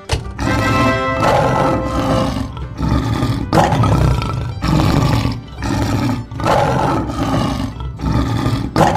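Lion roar sound effect: a run of loud roars, one after another about every second, over children's background music.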